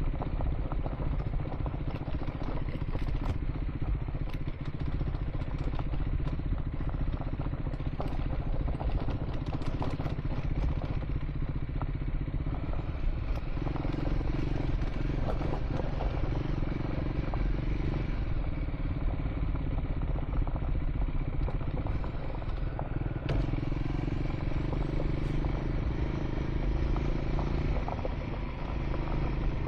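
Triumph Scrambler 400 X single-cylinder motorcycle engine running steadily while riding on a gravel track, its pitch shifting now and then with the throttle. Stones clatter and click under the tyres.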